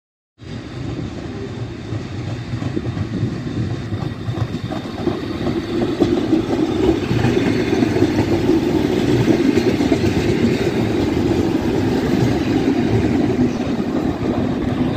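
Italian regional diesel railcar train moving slowly along a station platform: a steady engine drone with light wheel clatter over the rail joints. It starts after a brief silence and grows louder about six seconds in.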